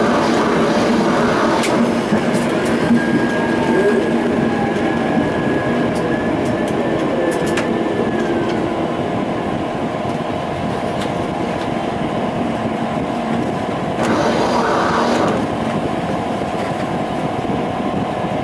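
Brno tram running along its rails, a steady rumbling ride with a high whine that holds for several seconds and then falls away, and scattered short clicks.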